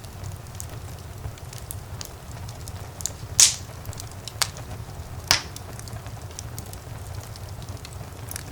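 Wood fire burning in a fireplace: a low steady rumble of flame under a constant scatter of small crackles, with two louder pops about three and a half and five seconds in.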